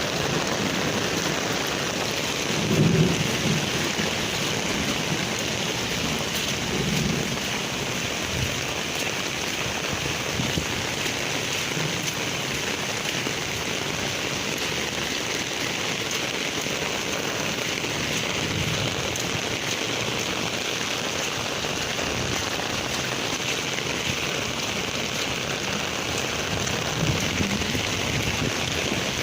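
Heavy rain pouring steadily, with a few brief low rumbles: about three and seven seconds in, and again later and near the end.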